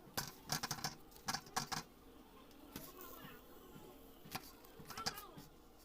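Kitchen utensils and dishware clattering: a quick run of sharp clicks and knocks, then three single clicks spaced out over the next few seconds.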